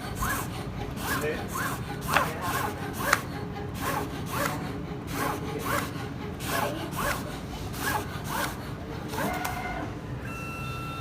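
Automatic decal cutting plotter (SAGA SCA3+II Pro) running a cut, its carriage motors whirring in short moves that each rise and then fall in pitch, about two a second. Near the end a steady high tone holds for about a second.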